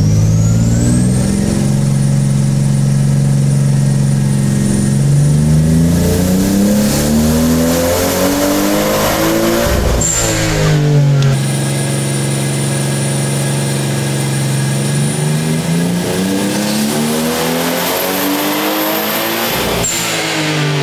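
Toyota Supra's 2JZ-GTE twin-turbo straight-six under full throttle on a hub dyno, with nitrous fed into the intake. It runs at a steady pitch, then revs up hard over several seconds and cuts off sharply at the top. The same steady hold and climb to a sudden cutoff comes again in the second half, with a high thin whine over the engine note.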